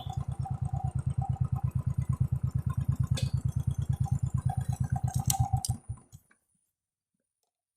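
Motorcycle engine idling with a fast, even thudding beat, then switched off about six seconds in, the beat stopping abruptly.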